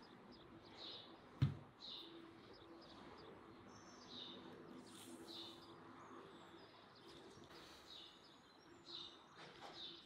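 Small bird chirping: short high chirps repeating roughly once a second. A single sharp knock about one and a half seconds in.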